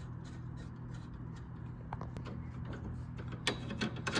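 Hand ratchet wrench clicking in quick, even strokes while a nut is run down, at about three to four clicks a second. The clicks fade in the middle and come back sharper near the end, over a steady low hum.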